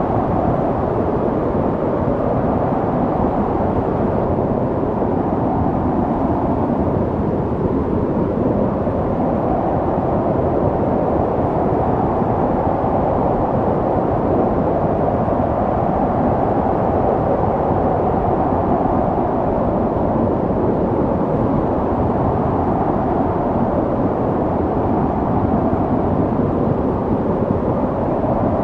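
Snowstorm wind blowing steadily, a low rushing noise that swells and eases slowly like gusts.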